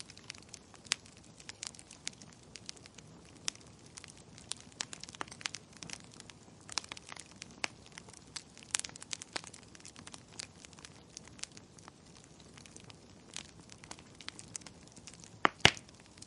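Wood fire crackling in a fireplace: irregular sharp pops and snaps, with two louder pops close together near the end.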